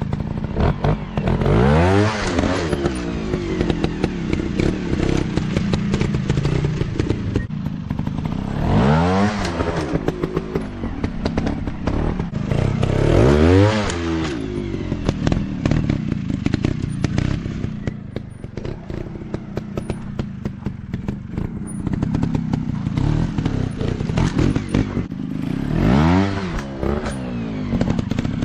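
Dirt bike engine revving hard in bursts, rising and falling in pitch about four times, with lower running between. Clattering knocks sound throughout.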